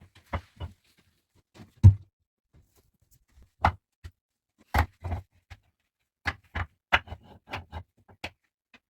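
An irregular series of about a dozen sharp knocks and clicks, hard objects being handled or struck, with the loudest about two seconds in and a quicker cluster near the end.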